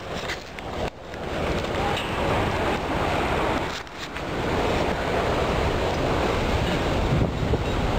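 Strong gusty wind blasting the microphone, a continuous rushing roar with heavy low buffeting, easing briefly about a second in and again around four seconds before surging back.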